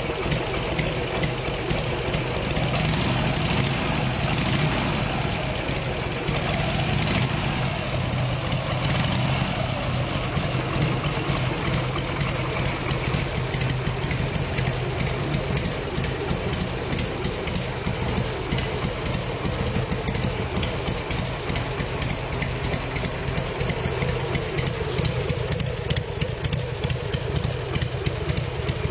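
Harley-Davidson Sportster XL1200 air-cooled V-twin idling steadily through its European stock exhaust.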